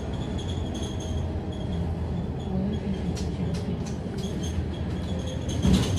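Inside a Scania K310UD double-decker bus on the move: the engine and drivetrain run with a steady low rumble and a faint high whine, and the body rattles, with brief clatter about three seconds in and a louder knock near the end.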